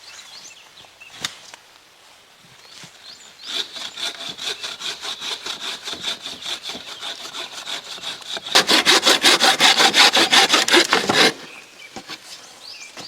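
Hand saw cutting through wood in rhythmic back-and-forth strokes. It starts a few seconds in at a steady pace, then gets faster and louder for about three seconds before stopping abruptly.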